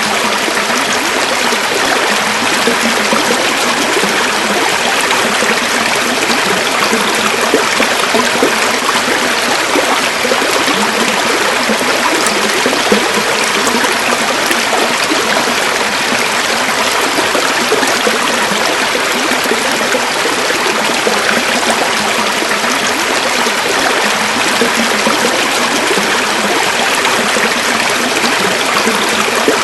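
River water flowing and babbling over stones, a steady, even rush.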